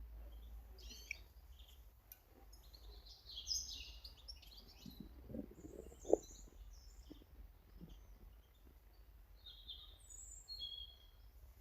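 Small garden birds chirping and twittering in short high calls. A few low knocks come around the middle, one sharp knock just after six seconds being the loudest sound.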